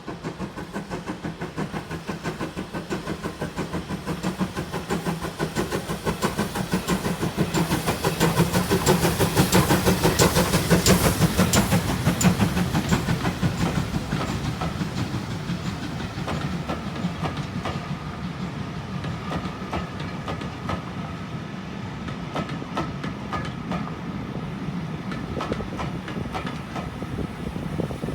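GWR 28xx 2-8-0 steam locomotive No. 2857 working a train past, with a rapid, even chuff of exhaust beats that grows louder to a peak about ten seconds in and then fades. The coaches follow with a steadier rolling rumble and clatter of wheels on the rails.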